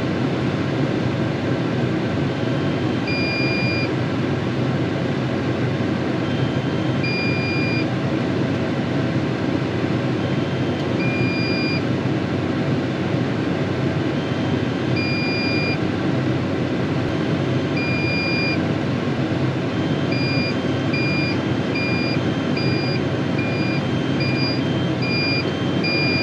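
Tractor engine running steadily, heard from inside the cab. Over it a high electronic beep sounds about every four seconds and, about twenty seconds in, quickens to roughly two beeps a second: a drone remote controller's low-battery warning as the drone runs out of battery.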